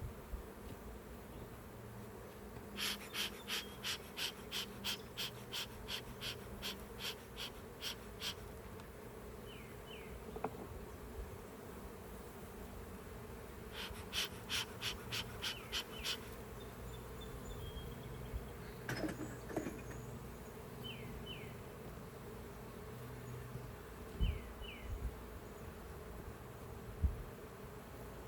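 Honeybees buzzing steadily around an open hive. Twice there is a rapid run of sharp ticks, about three or four a second for a few seconds, and a few short high chirps come and go.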